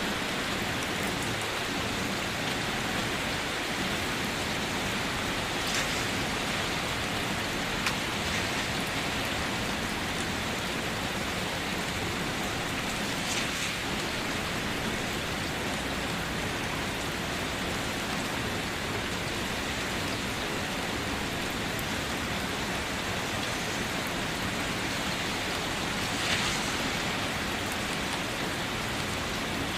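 Steady rain falling on a surface, with a few brief louder splats now and then.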